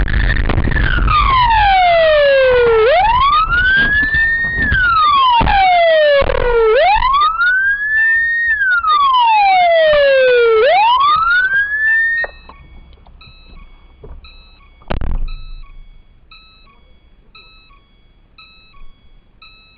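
Emergency vehicle siren in a slow wail, rising and falling about every four seconds, stopping abruptly about twelve seconds in. After it, a faint short electronic beep repeats about once a second, with a single thump a few seconds after the siren stops.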